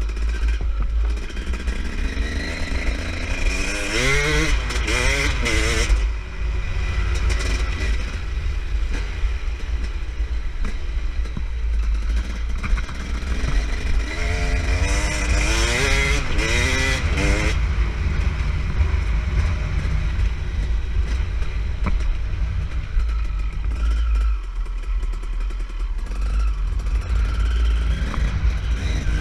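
KTM EXC 300 dirt bike's single-cylinder two-stroke engine being ridden, its revs rising and falling quickly in two bursts, about three seconds in and about fourteen seconds in, over a steady deep rumble.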